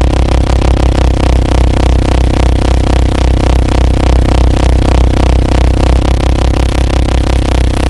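Harsh noise music: a loud, dense drone with a heavy pulsing low hum under several held tones and a rapid flutter.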